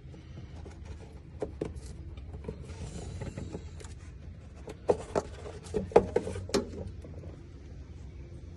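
A series of sharp knocks and clicks, a few scattered early on and a loud cluster of about half a dozen around five to six and a half seconds in, over a low steady hum.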